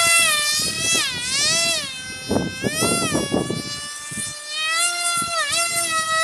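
Electric motor of a handmade foam RC F-22 model plane giving a high, buzzing whine. Its pitch dips and climbs again several times, around the first and second seconds and again near five and a half seconds, with rough low rumbles of wind underneath.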